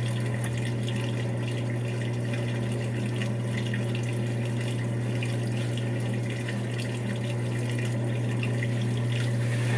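Brastemp 5 kg top-load washing machine with water running steadily in its tub, over a constant low hum.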